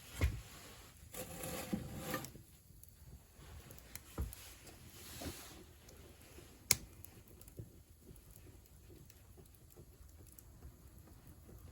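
Wood fire crackling in a wood-burning stove: scattered small pops and soft knocks, with one sharp crack about two-thirds of the way through.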